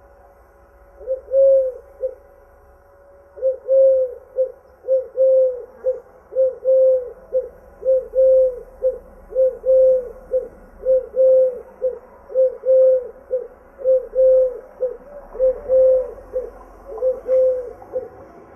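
A dove cooing: a long run of low, arched coos, each followed by a short clipped note, repeating evenly at roughly one pair every 0.7 seconds after a brief pause near the start.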